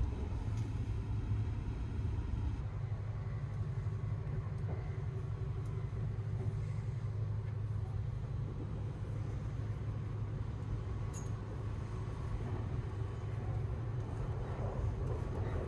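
Steady low rumble of the 285-series Sunrise Express sleeper train running, heard from inside the carriage, with a soft rustle of bedding near the end.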